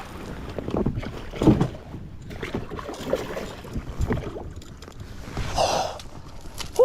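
Irregular splashes and knocks around a fishing kayak while a hooked bass is fought in close to the boat.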